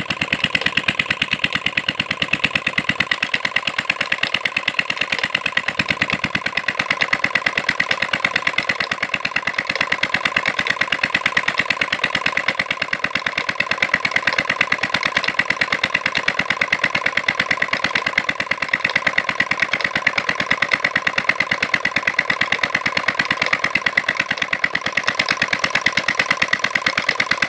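Petter diesel engine running steadily, with an even, rapid beat of firing strokes.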